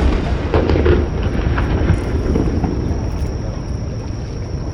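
Fireworks: the low rolling rumble left by an aerial shell burst just before, with a few faint crackles in the first two seconds, settling into a steady low rumble.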